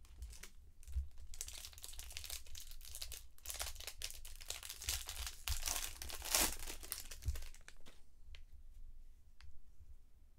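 Foil wrapper of a baseball card pack crinkling and tearing as it is opened, for about six seconds, followed by a few light taps of cards being handled.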